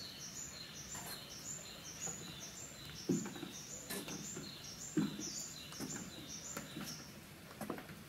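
Faint bird chirping, one short high note repeated about twice a second. Two soft thuds come about three and five seconds in.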